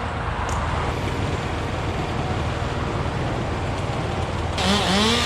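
Steady traffic noise from vehicles passing on a busy road, over a low engine hum. Near the end a small engine revs up and down several times.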